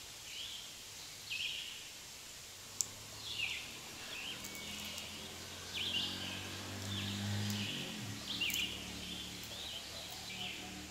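Birds chirping over steady outdoor background noise, short downward-sweeping calls about once a second. A low hum comes in about four seconds in and fades out near eight seconds.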